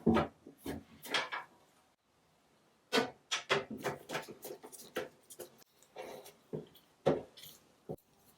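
Light clicks, taps and knocks of small hard parts being handled, with a little rubbing, at an uneven pace, with a fully silent break about two seconds in.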